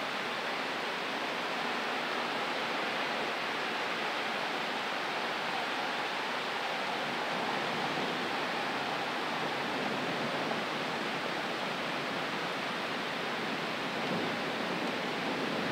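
Steady rain falling in a thunderstorm, an even hiss with no thunder heard.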